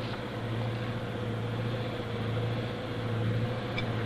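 A steady, even mechanical drone with a low hum.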